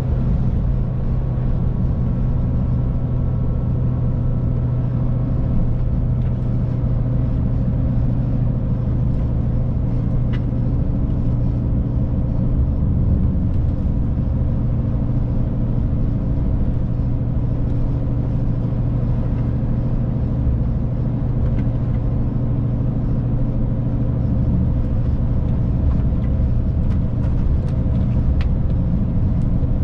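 Scania truck's diesel engine running steadily at cruising speed, heard from inside the cab, with a low hum and road noise. A few faint clicks near the end.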